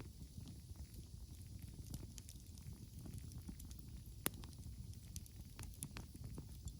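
Wood campfire crackling, with scattered small pops and one sharper pop a little past the middle, over a faint low rumble.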